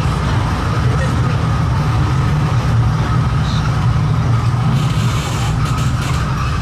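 Kurobe Gorge Railway trolley train running slowly into a station, heard from inside an open-sided car: a steady low rumble from the wheels on the track, with a thin steady whine above it.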